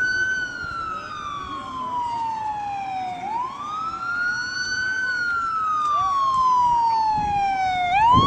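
Emergency vehicle siren wailing in two slow rise-and-fall cycles, each a quick climb and then a long falling glide, growing louder, then cutting off suddenly at the end as it starts to rise again.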